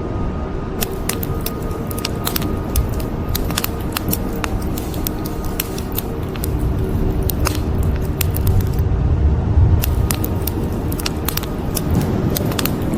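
Wood fire crackling with many sharp pops and snaps over a steady low rumble of rain, and the rumble swells for a couple of seconds past the middle. Soft music plays faintly underneath.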